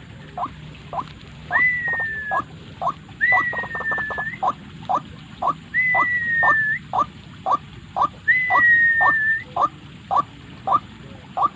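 White-breasted waterhen calling: short, loud 'ruak' notes repeated about twice a second, with a longer whistled note that slides down a little, four times.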